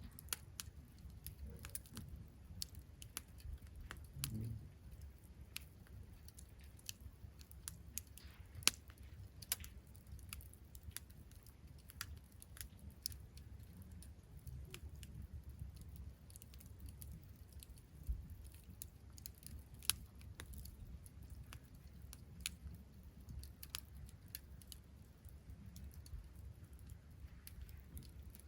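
Wood campfire crackling: irregular sharp pops and snaps, a few louder than the rest, over a low steady rumble.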